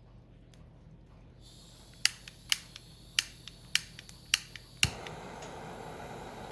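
Six sharp clicks about half a second apart, then a steady hiss that starts on the last click and holds: a gas torch's igniter clicking until the burner lights, as when starting a campfire.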